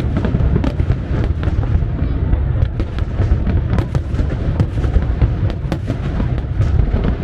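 Fireworks going off in a dense barrage: a continuous deep rumble of bursts with many sharp crackles and pops over it.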